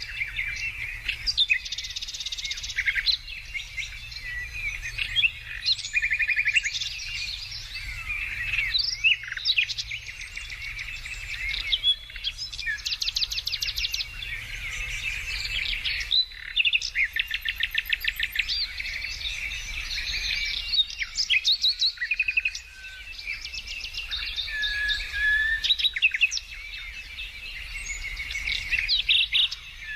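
Several songbirds singing at once: a dense chorus of overlapping chirps, rapid trills and short whistled notes, with a faint low hum underneath.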